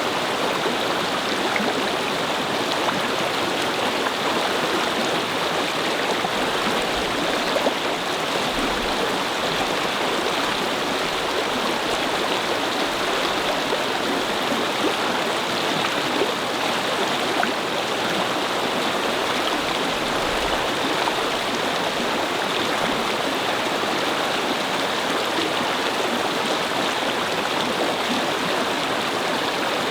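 Shallow brook babbling and flowing over stones, a steady rush of running water.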